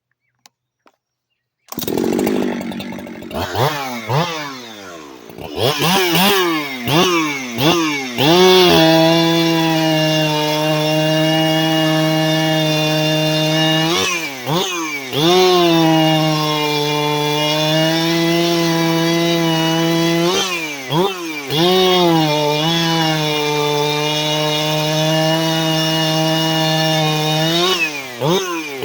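Husqvarna 371XP two-stroke chainsaw, just fitted with a new OEM cylinder and single-ring piston, blipped several times and then held at full throttle in long steady stretches, the pitch sagging slightly as it cuts wood. Twice it drops back briefly and is revved up again.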